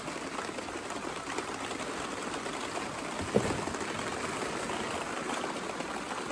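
Heavy rain falling and splashing steadily during a thunderstorm, with a single short thump about three and a half seconds in.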